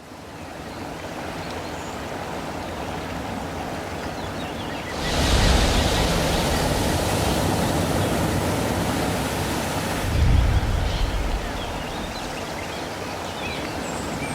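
Steady rushing noise that fades in, swells louder with a deep low rumble about five seconds in, and eases back about ten seconds in after a brief low surge.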